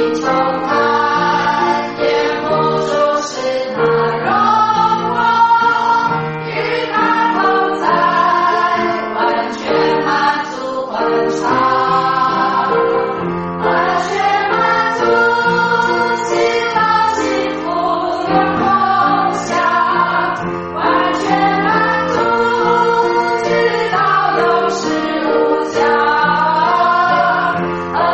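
Music: a choir singing over a sustained accompaniment, with held notes changing every second or two and no break.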